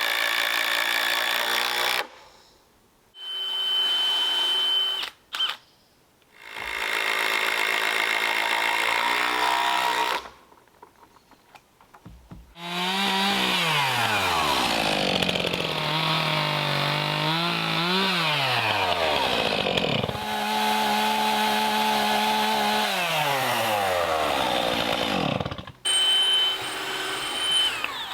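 Stihl MS 291 chainsaw run in several short bursts. It then makes a long cut about halfway through, its pitch sagging under load and picking up again, and drops back toward idle twice near the end.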